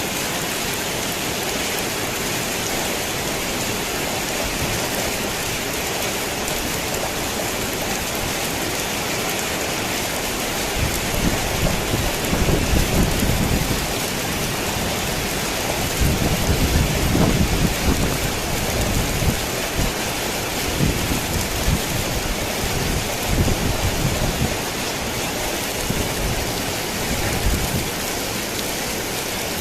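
Steady heavy rain on a tin roof, with thunder rolling in low, drawn-out rumbles from about ten seconds in. The thunder is loudest in the middle and fades back under the rain near the end.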